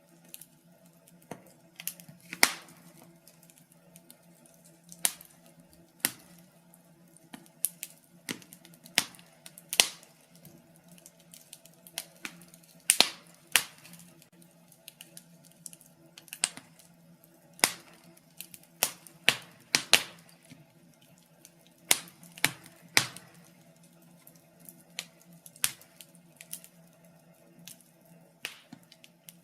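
Wood fire in a fireplace crackling, with irregular sharp pops and snaps, a few of them loud, over a faint steady low hum.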